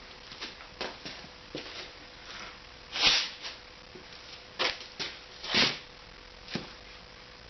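Scattered knocks and clicks with a few short scraping, gritty handling sounds as a casting mold is broken open and the cast aluminum muffler piece is worked free; the loudest scrapes come about three seconds in and again a little past halfway.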